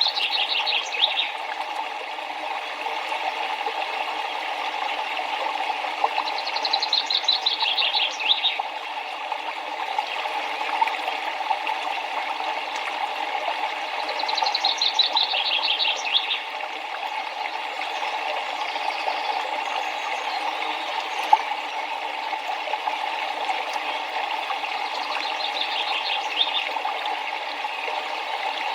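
River water flowing steadily, with a songbird singing a short, rapid series of high descending notes four times, about every eight seconds.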